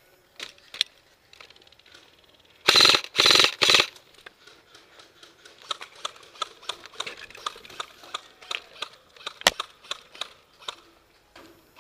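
Airsoft electric gun fired in three short full-auto bursts about three seconds in. After them comes a run of light clicks at about three a second, with one sharper crack near the end.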